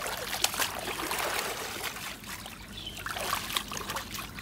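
Shallow water splashing and trickling, with bursts of small splashes in the first half and again near the end.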